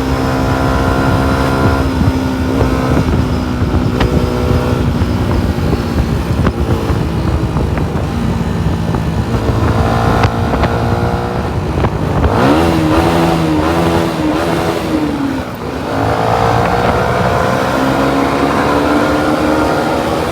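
Yamaha MT-125's single-cylinder four-stroke engine running under way. Its pitch sags slowly, wavers up and down about two-thirds through, drops briefly, then climbs steadily as the bike accelerates.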